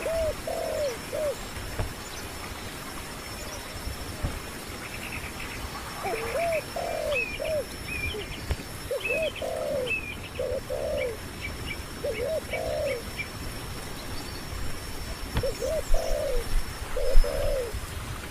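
Birds calling: low arched notes repeated in short phrases of two or three, again and again, with higher, quicker chirps in between for several seconds midway. A thin steady high tone runs underneath.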